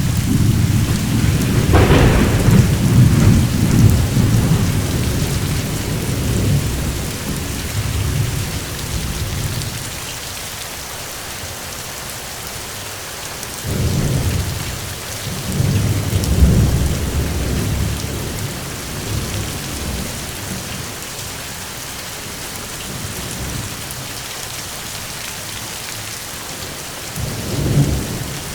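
Steady rain with rolling thunder: a long low rumble in the first ten seconds that dies away, another about halfway through, and a short one near the end.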